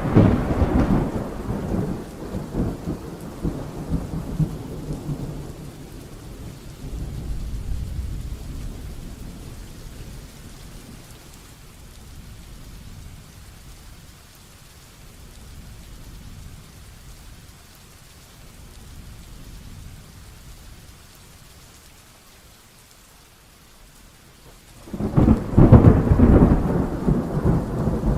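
Heavy rainstorm with thunder: a rumble of thunder dies away over the first several seconds into steady rain, and a loud new crack of thunder breaks about 25 seconds in.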